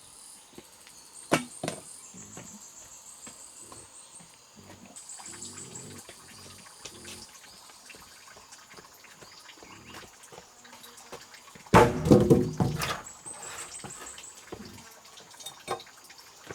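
Insects chirring at a high pitch, with scattered small clicks and knocks; about twelve seconds in, a loud pitched call or shout lasts about a second.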